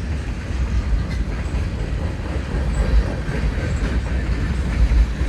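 A freight train's cars rolling past, a steady rumble of wheels on the rails with faint clicks.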